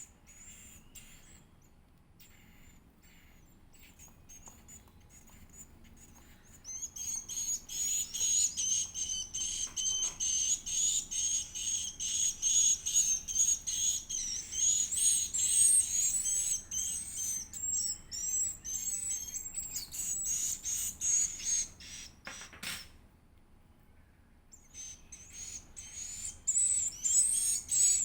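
Edible-nest swiftlet chick calling in rapid, high-pitched chirps, begging as it is fed. The calls begin several seconds in, break off briefly near the end, then resume.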